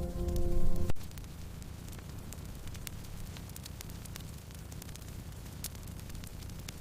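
Wood fire crackling: a steady low rush of flames with scattered sharp pops and ticks. Music with sustained tones plays for about the first second, then cuts off abruptly.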